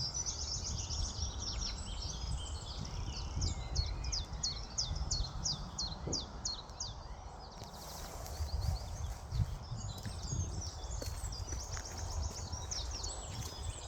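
Songbirds singing: rapid series of high chirps and trills, with a short lull about halfway through, over a low steady rumble.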